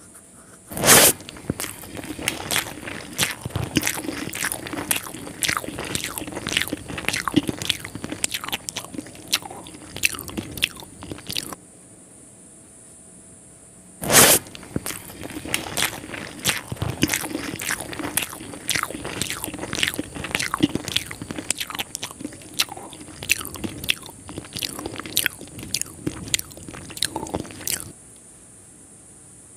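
Close-miked chewing of hand-fed mouthfuls of mutton biryani. A loud bite about a second in is followed by chewing with many sharp clicks and crunches, then a short pause. A second loud bite starts another spell of chewing, which stops shortly before the end.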